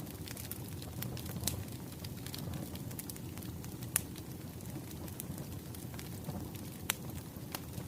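Firewood burning: a steady low rumble of the fire with scattered sharp crackles and pops, the loudest about four seconds in.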